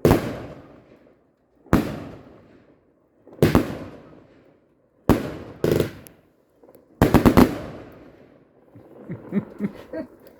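Garden fireworks going off: single sharp bangs roughly every second and a half, each with a short echoing tail, then a quick volley of about five bangs past the middle. Fainter crackling pops follow near the end.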